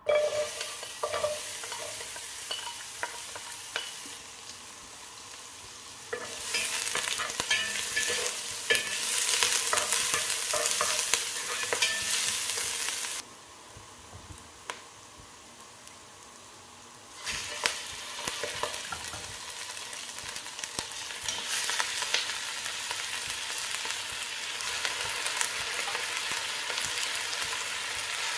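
Chopped onion frying in hot oil in a pot, a steady sizzle with small clicks and scrapes of a wooden spatula stirring. The sizzle drops away for a few seconds around the middle, then comes back louder as chicken pieces go into the pot.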